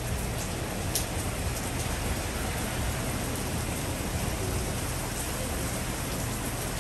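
Heavy rain pouring down steadily, with a low hum underneath and a light tick about a second in.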